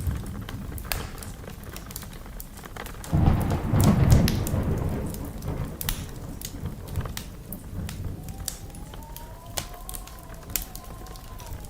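Wood fire in a fireplace crackling, with many sharp pops over a low rumble. About three seconds in, a louder low rushing surge lasts around two seconds. Later, a thin whistle from the burning wood rises slightly, holds, and falls away near the end.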